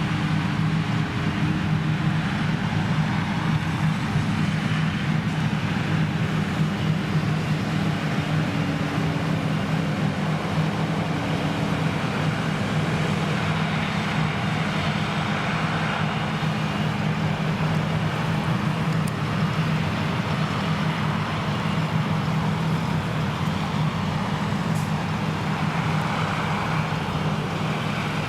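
Krone Big X 1100 self-propelled forage harvester running steadily at full power while chopping triticale: a constant low engine and driveline hum with an even hiss of crop passing through.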